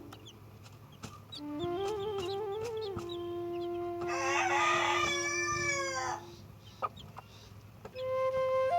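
A rooster crows once, about two seconds long, a little past the middle, over a slow flute melody with long held notes.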